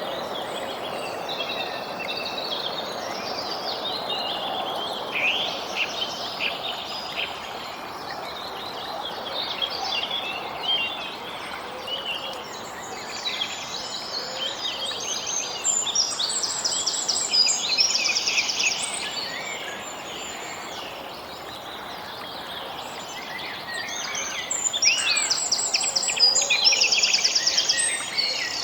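Several songbirds chirping and singing over a steady background hiss. A fast trill comes twice, once partway through and again near the end.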